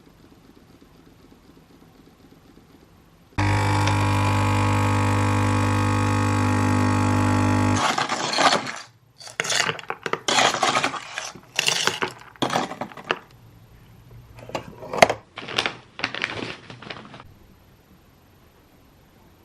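An electric machine hums steadily for about four seconds and cuts off. It is followed by a string of about a dozen short, irregular noises.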